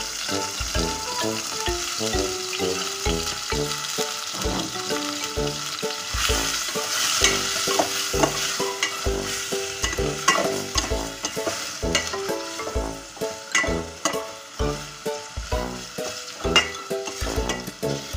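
Pork, tomato, onion and garlic sizzling as they sauté in a stainless steel pot, with a spoon knocking and scraping against the pot as it is stirred from a few seconds in. Background music with a steady beat plays under it.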